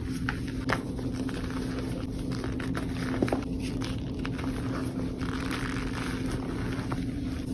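Reformed gym chalk and cornstarch being crumbled and crushed by hand: soft crunching with a couple of sharp cracks, over a steady low hum.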